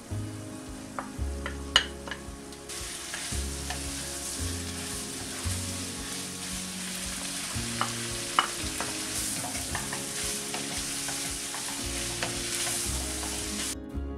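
Chicken and vegetables sizzling in a hot non-stick wok while they are stirred, with sharp clicks and knocks as the food is stirred and tipped in. The sizzle gets louder about three seconds in and cuts off suddenly near the end.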